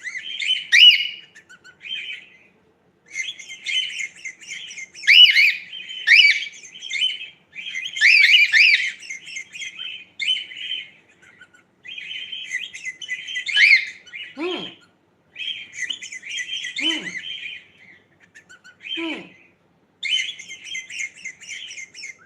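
Pet cockatiel chirping in bursts of rapid high chirps and warbles, with a few short notes that fall steeply in pitch in the second half.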